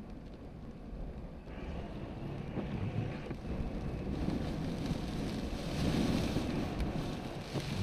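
Strong storm wind buffeting the microphone: a low, rumbling rush that grows steadily louder, with a hissier edge coming in about a second and a half in.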